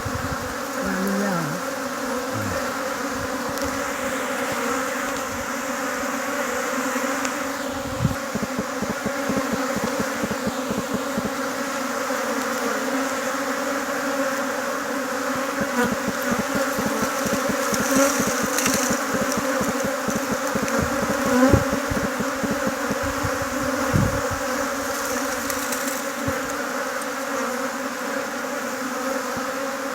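Honeybee colony buzzing steadily, a dense many-wing hum with a few low bumps.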